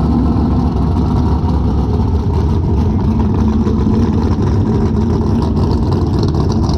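Car engine running steadily, a loud, even low rumble without revving.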